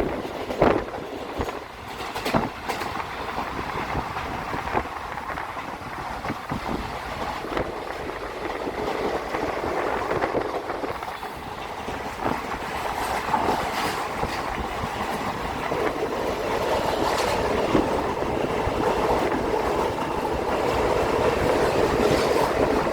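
Passenger train running along the track, a steady rattling rumble of wheels and carriage that grows slowly louder, with a few sharp knocks in the first few seconds, heard from on board.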